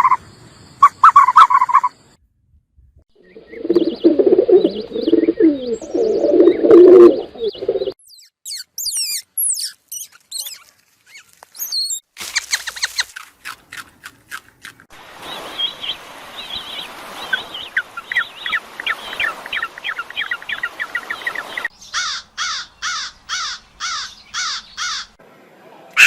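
A run of different animal calls, one after another, many of them birds chirping and singing. In the middle a trilling song plays for several seconds, and near the end come about eight evenly spaced calls.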